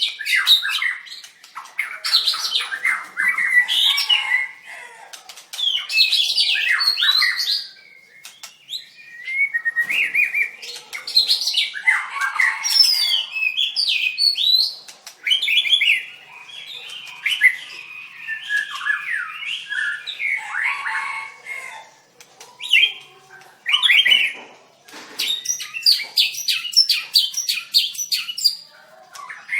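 White-rumped shama singing: phrases of varied whistles and rapid trills broken by short pauses, with a fast run of sharp repeated notes near the end.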